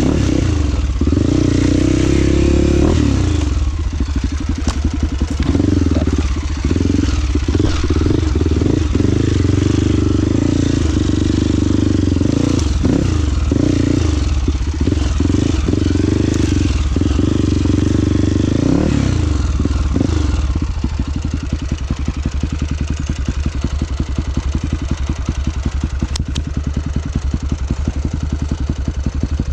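Dirt bike engine running on a trail, revs rising and falling for about the first two-thirds, then settling to a steady, even low-revving putter near the end.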